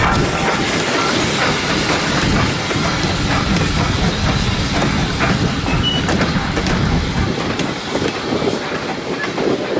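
A train running past: a steady, loud rumble of wheels on the rails with scattered clicks. The low rumble falls away about seven seconds in.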